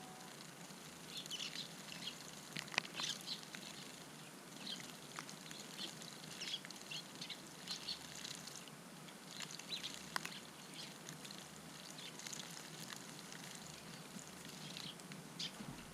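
Many short, high chirps from a group of Eurasian tree sparrows, scattered irregularly throughout, with a few sharp clicks among them.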